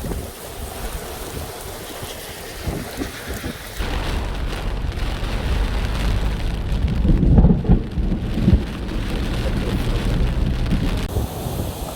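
Heavy rain pouring down steadily. About four seconds in, a deep rumble joins it, growing louder and peaking between about seven and eight and a half seconds.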